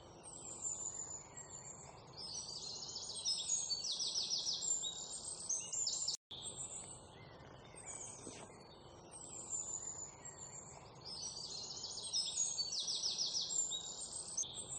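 Birds chirping and giving fast high trills over a faint steady hiss, a nature-ambience recording whose same sequence of calls repeats after about six seconds, with a brief dropout where it loops.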